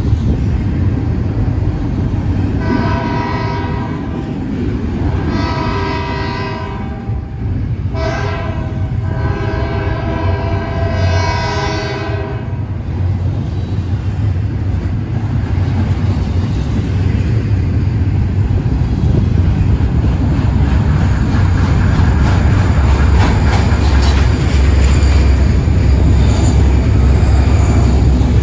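A CSX double-stack intermodal train of container well cars rolling past close by: a steady low rumble with clatter from the wheels, growing louder in the second half. A diesel locomotive's air horn, fainter than the rumble, sounds several long blasts from about 3 to 12 seconds in.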